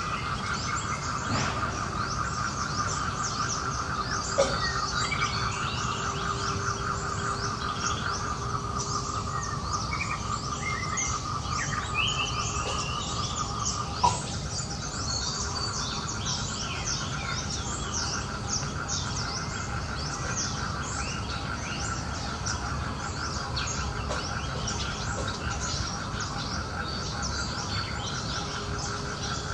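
Outdoor forest ambience: many birds chirping over a steady, rapidly pulsing insect drone, with a low rumble underneath. Two short sharp clicks stand out, one about four seconds in and one near the middle.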